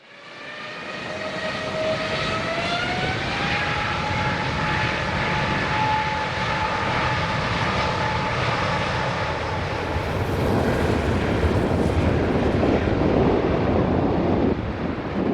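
Airbus A350's Rolls-Royce Trent XWB turbofans at takeoff power. A stacked whine rises over the first few seconds and then holds over a loud jet roar, and a deeper rumble builds about ten seconds in.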